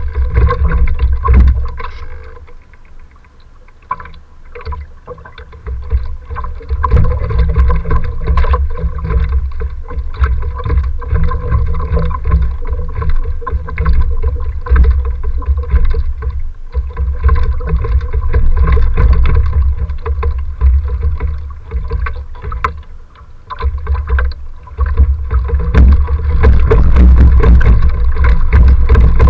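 Strong gusty wind buffeting the microphone on a boat in rough water: a heavy low rumble that swells and drops, easing briefly twice and loudest near the end, over a faint steady hum.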